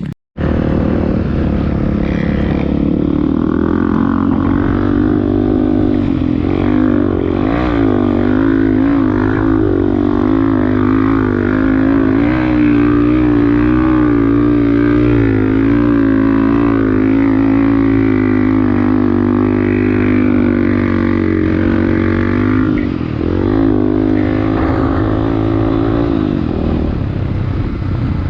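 Off-road vehicle engine running steadily under load, its pitch wavering up and down with the throttle.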